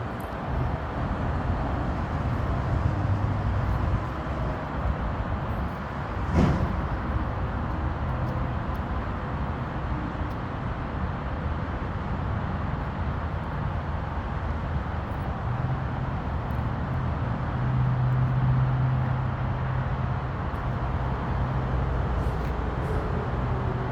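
Garbage truck engine running steadily with a low hum, with one sharp knock about six seconds in. The engine grows louder for a few seconds past the middle.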